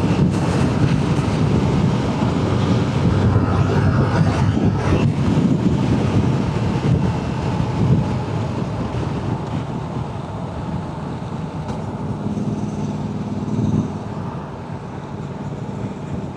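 Motorcycle engine running while riding, with wind rushing over the microphone. The engine and wind get quieter from about halfway through.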